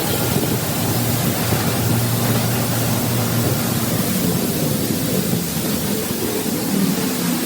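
Self-service car wash high-pressure wand spraying soapy water onto a car: a steady hiss of spray with a low hum underneath.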